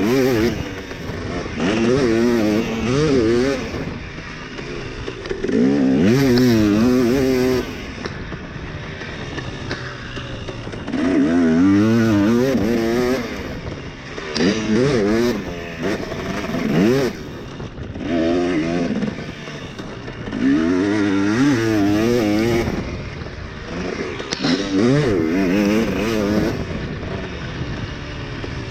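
Dirt bike engine revving hard in repeated bursts a few seconds apart, its pitch wavering up and down, dropping back between bursts as the throttle is rolled off around the track.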